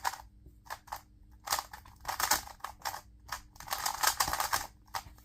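A 2x2 speed cube being turned fast during a timed solve. The plastic layers make quick flurries of clicking and clacking, with short pauses between the bursts of turns.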